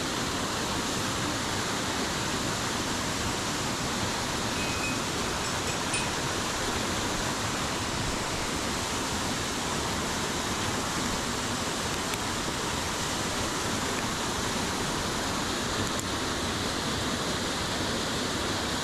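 Waterfall on a mountain headwater stream, water pouring and rushing in a steady, unbroken roar.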